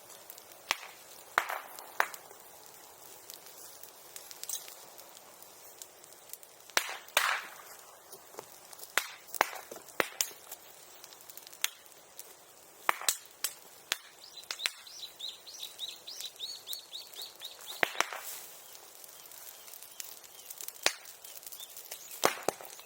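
Bonfire crackling with sharp, irregular pops and snaps. Between about 14 and 18 seconds in, a rapid high-pitched trill of ticks runs alongside.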